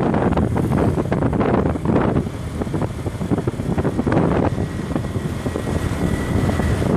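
Wind buffeting the microphone of a moving motorbike, over the bike's engine and tyre noise, in uneven gusts.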